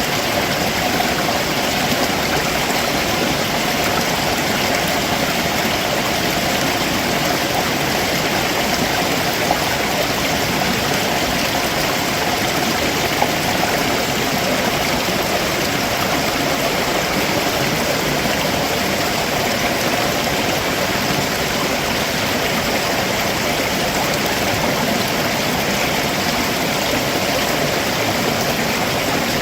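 Stream water rushing and splashing over rocks below a waterfall: a steady, unbroken flow.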